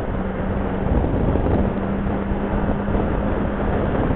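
Motorcycle riding at a steady speed: the engine runs under heavy wind noise buffeting the helmet microphone. A steady hum holds one pitch, dropping out briefly about a second in.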